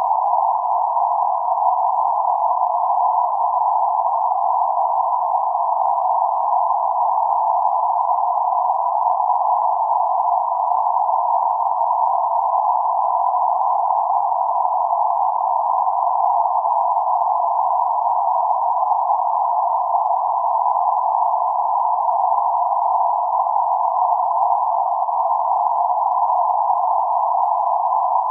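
Steady band-limited noise centred on 848 Hz, a narrow hiss spanning roughly 550 Hz to 1.4 kHz with no lows or highs, holding an even level.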